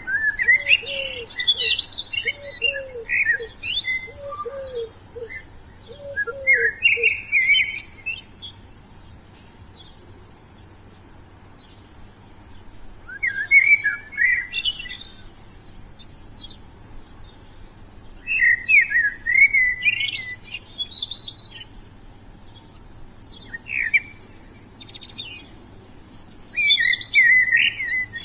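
Wild songbirds singing: short, quick chirping phrases come again every few seconds, with high twittering notes above them. During roughly the first seven seconds a second, lower call repeats about twice a second.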